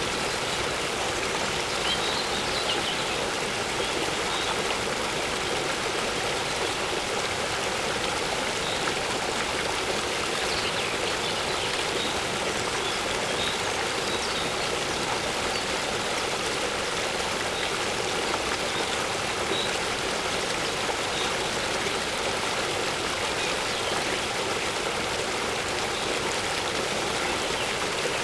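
Waterfall pouring steadily, an even, unbroken rush of water, with a few faint, brief bird chirps here and there.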